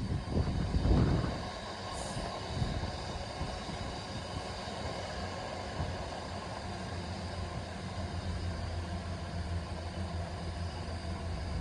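Freight train hauled by a Class 66 diesel locomotive running past. A loud rumble in the first second or so settles into a steady, quieter rumble with a low hum.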